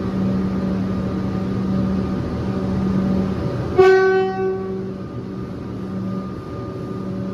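Alstom Comeng electric train running with a steady hum as it leaves for Sunbury. About four seconds in, a train horn gives one short toot that dies away within a second.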